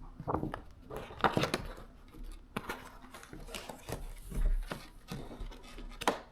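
Irregular knocks and clatter, a dozen or so uneven strikes, with the loudest one near the end.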